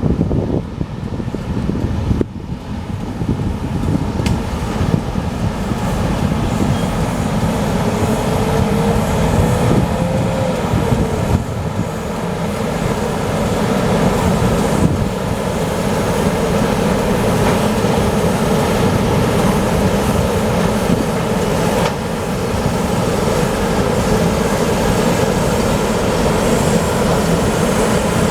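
Container train hauled by Class 18E electric locomotives rolling on the rails, a steady loud rumble of wheels and wagons that builds slightly. A brief pitched squeal rises and falls about eight to ten seconds in.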